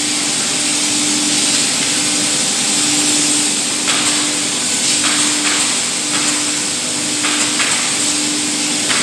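Steady hissing machine noise with a low hum that pulses on and off, the high hiss dipping briefly a few times from about four seconds in.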